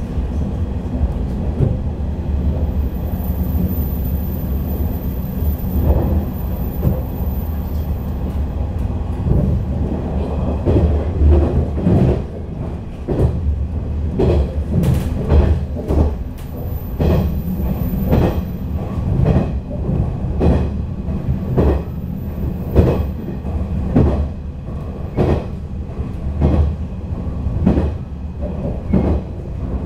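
Inside a JR 485-series electric train running on rails: a steady low rumble from the running gear, with the wheels clacking over rail joints, the clacks coming thick and regular from about ten seconds in.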